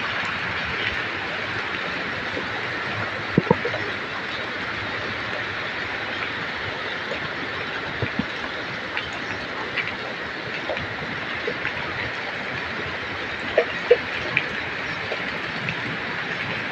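Heavy rain falling steadily, an even hiss with scattered drips and ticks; a couple of sharper double ticks stand out about three and a half seconds in and near the end.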